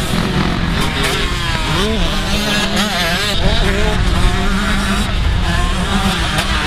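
Several motocross dirt bike engines revving, their pitch rising and falling again and again as the riders work the throttle, over a steady low engine drone.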